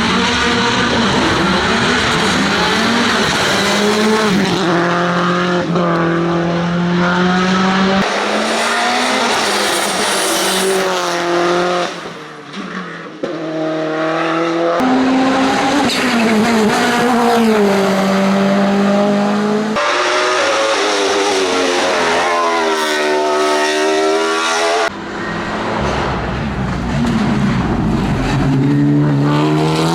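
Racing car engines at full throttle, revving up through the gears. The pitch climbs and then drops at each shift. Several separate passes are cut one after another.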